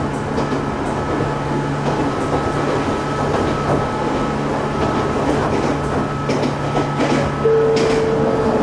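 Ohmi Railway electric train running at speed, heard from inside the carriage: a steady hum and rumble with faint clicks from the rails. A steady higher tone joins near the end.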